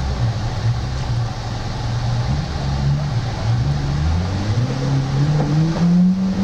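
Off-road 4x4 engines running; one revs up, its pitch climbing steadily for about two seconds from around the middle, as the vehicle pushes through muddy water.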